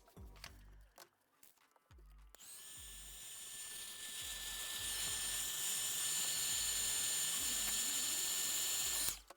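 A high-pitched power tool whines steadily for about seven seconds, growing louder before it cuts off suddenly near the end. Background music with a steady beat plays underneath.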